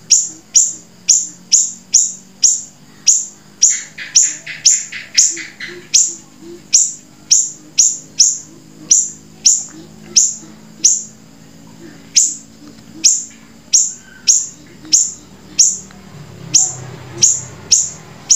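A songbird calling over and over, about twice a second, each call a sharp high note that sweeps quickly downward. About four seconds in, a quick run of lower repeated notes joins it for about two seconds.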